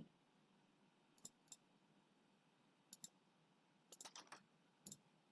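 Faint computer mouse and keyboard clicks in small scattered groups: a pair about a second in, another pair near three seconds, a quick run of four around four seconds, and one more near the end.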